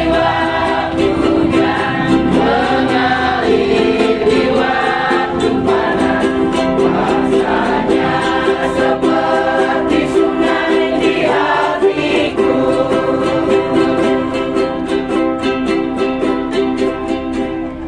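A choir singing a hymn together with a strummed ukulele-like plucked string accompaniment, with a steady strumming rhythm under the voices.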